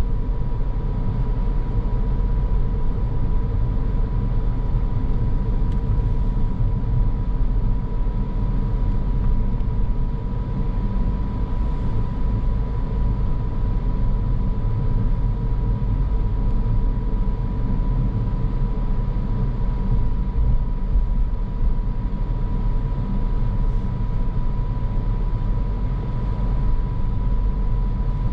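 A car driving along a road: a steady low rumble of road and tyre noise with a thin, constant high whine running over it.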